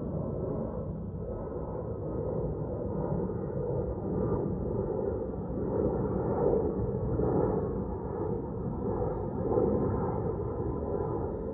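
Steady outdoor ambient rumble that swells and eases every second or two, with a faint steady hum underneath.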